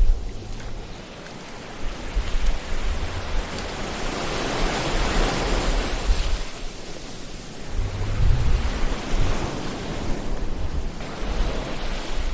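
Ocean waves washing ashore: a steady hiss of surf with a low rumble, one wave swelling to a peak about halfway through, easing off, then another building near the end.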